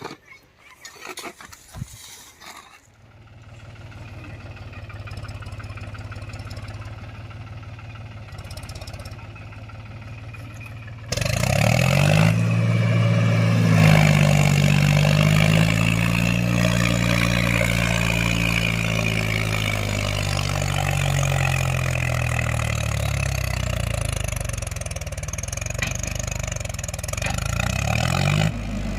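Mahindra tractor's diesel engine running steadily, then about a third of the way in it suddenly gets much louder and revs hard, its pitch climbing, easing off and climbing again near the end.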